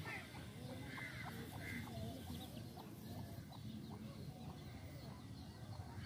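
Faint bird calls: many short calls at different pitches, scattered throughout.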